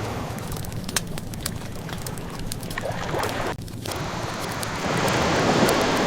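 Wood fire crackling with scattered sharp pops over the steady wash of ocean waves. A wave swells louder near the end.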